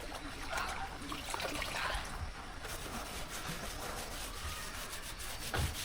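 Irregular scraping and rubbing of a hand tool worked against a surface, with a low knock near the end.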